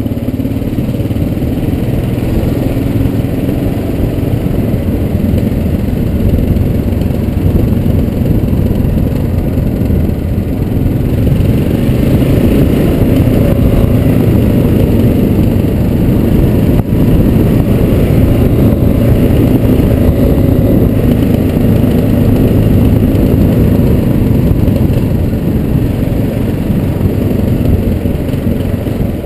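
Kawasaki KLR650's single-cylinder engine running steadily as the motorcycle rides along, getting a little louder through the middle.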